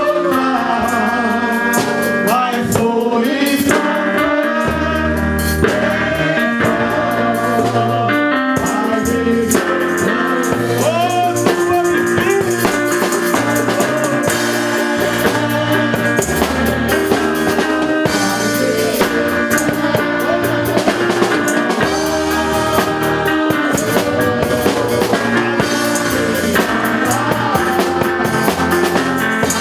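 Live band music with drum kit, bass and keyboard, and some singing.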